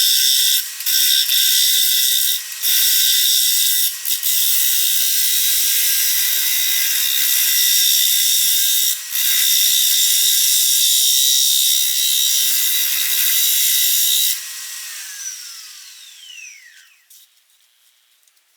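Turning tool cutting a spalted oak bowl blank spinning on a Grizzly wood lathe at almost 1000 RPM: a loud steady hiss over the motor's whine, broken by a few brief lifts of the tool. About fourteen seconds in the cutting stops and the lathe is switched off, its whine falling in pitch as it spins down.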